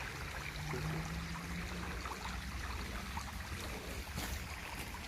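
A small mountain stream running and trickling steadily.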